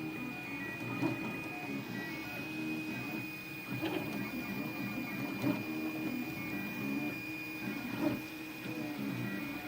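Anet A8 3D printer's stepper motors whirring in quickly changing tones as it prints, over a steady high whine, with a few short ticks.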